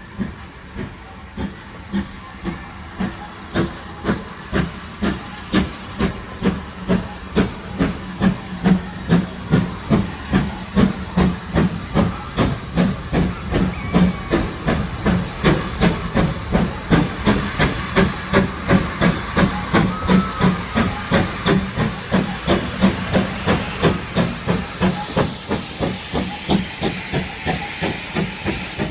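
Steam locomotive, ex-GWR tank engine 5619, working a train with a steady exhaust beat of about two and a half chuffs a second. The beat grows louder over the first several seconds, and a steam hiss builds up in the second half.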